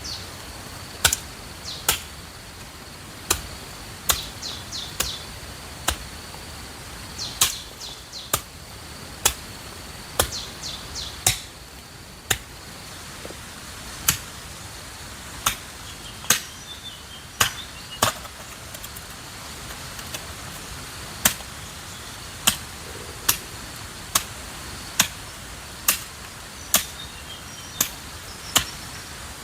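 Repeated sharp chopping knocks, roughly one a second with uneven gaps. Under them runs a steady high insect buzz, with a few quick bird chirps in the first half.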